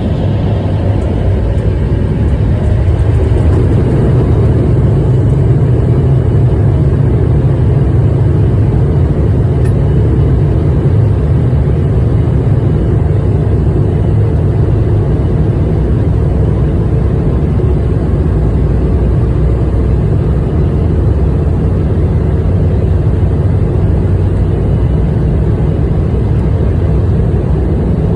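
Embraer E175 regional jet's twin GE CF34 turbofans at takeoff power: a loud, steady, low rumble that holds even throughout.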